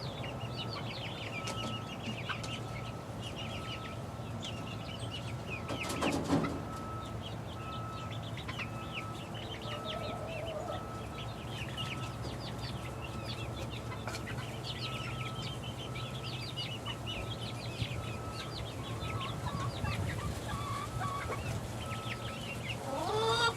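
A flock of six-week-old chickens peeping and cheeping constantly in short high calls. There is a brief rustle about six seconds in and a louder rising call near the end, over a steady low hum.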